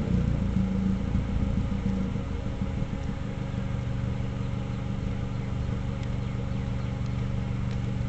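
Mazdaspeed Protege's turbocharged four-cylinder engine idling, settling to a steady idle over the first few seconds after being revved. It is burning off Seafoam run in through the brake booster vacuum line, and the exhaust is still smoking.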